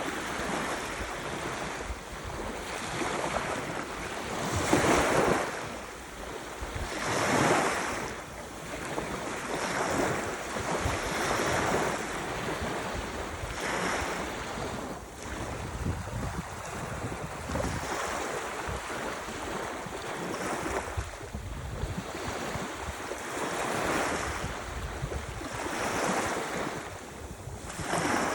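Ocean waves washing in and breaking in a continuous rush of surf, swelling louder every couple of seconds, with wind on the microphone.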